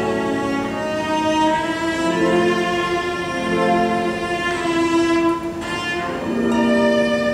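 Music of bowed strings playing long held notes in changing chords.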